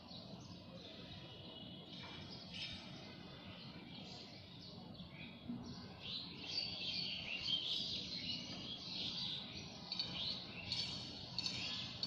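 Birds chirping and chattering, getting busier and louder from about halfway through.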